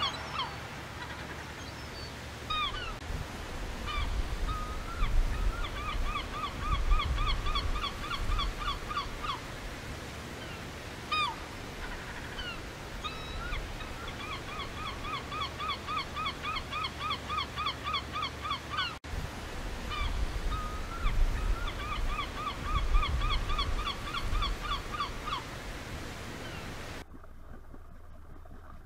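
A bird calling: three long runs of fast, evenly repeated short notes, about three a second, with single calls in between, over a steady low rumble. The sound drops quieter near the end.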